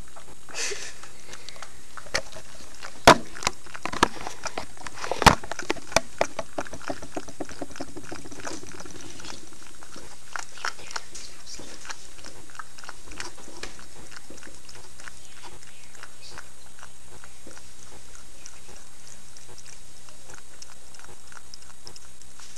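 A cat eating: a run of quick clicks and crunches of chewing, with a few sharper knocks about three and five seconds in, thinning out in the second half.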